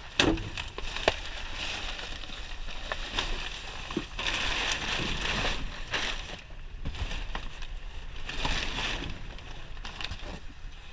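Rummaging through scrap in a dumpster: items knocking and clattering, with patches of rustling from boxes being moved. The sharpest knocks come about a quarter-second and about a second in.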